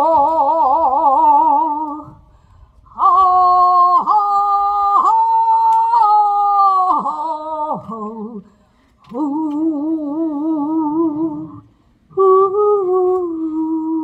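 Wordless singing on long held notes with a wide vibrato, in four phrases broken by short breaths, the pitch bending down at the ends of phrases.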